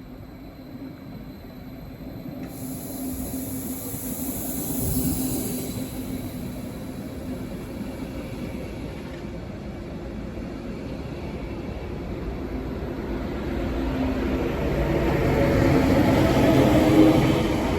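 A train moving on the tracks, its rumble and wheel noise growing louder towards the end.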